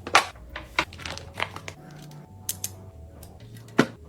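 Food packaging and plastic containers being handled while a fridge is restocked: a string of sharp clicks and taps with some crinkling. The loudest clicks come just after the start and again about four seconds in.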